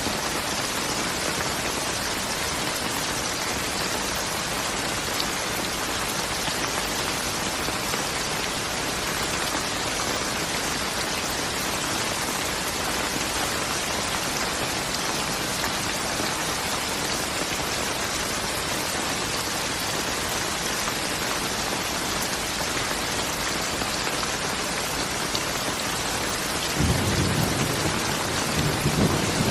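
Steady rainfall, an even hiss of drops on surfaces. Near the end a low rumble of thunder comes in over the rain.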